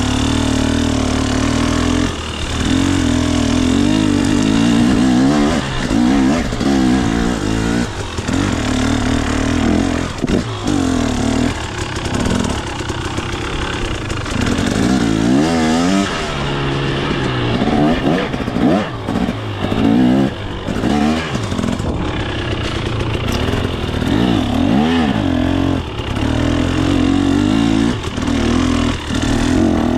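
KTM 250 XC two-stroke dirt bike engine being ridden, its revs climbing and dropping again and again as the throttle is worked on and off.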